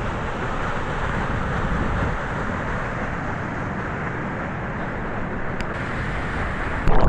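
Waterfall rushing: a steady noise of falling water that grows louder near the end.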